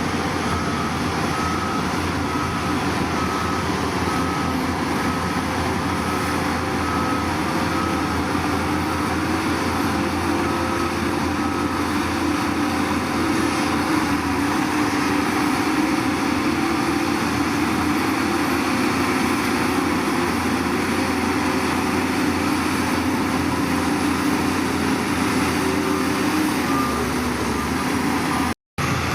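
Heavy diesel machinery engine running steadily, with a reversing alarm beeping about once a second for the first ten seconds or so and again near the end.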